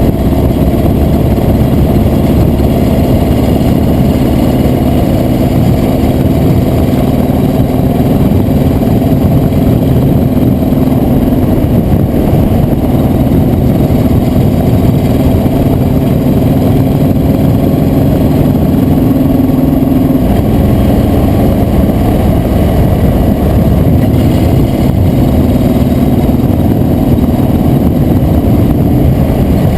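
Motor vehicle engine running steadily at cruising speed under loud wind and road noise, its pitch shifting a little partway through.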